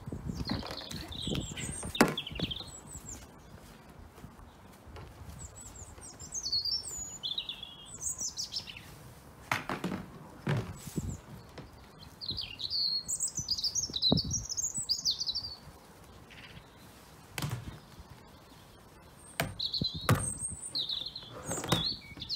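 Small garden birds chirping in short twittering phrases throughout, with several sharp knocks and clunks, the loudest about two seconds in, from a wheel being fitted onto a storage box.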